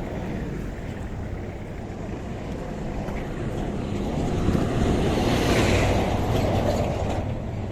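A motor vehicle passes on the road over a steady low engine rumble. It grows louder about halfway through, then fades away.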